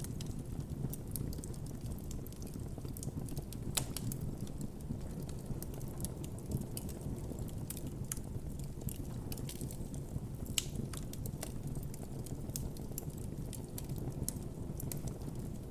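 Wood campfire burning: a steady low rush of flame with irregular sharp crackles and pops, a louder pop about four seconds in and another about ten and a half seconds in.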